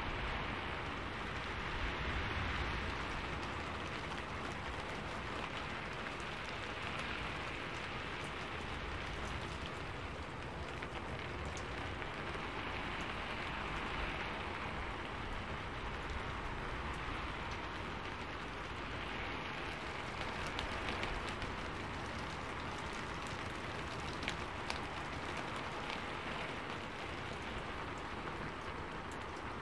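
Steady rain falling, an even hiss of drops on wet foliage and surfaces, with a couple of sharper single drop taps about four-fifths of the way through.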